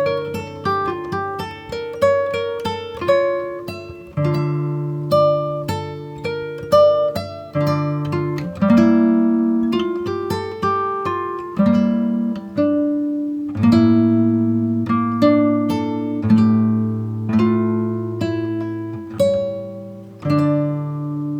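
Background music: an acoustic guitar picking and strumming chords at a gentle, steady pace.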